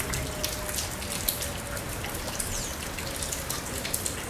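Steady rainfall with many separate drops and drips striking close by, heard as scattered sharp ticks over a constant hiss.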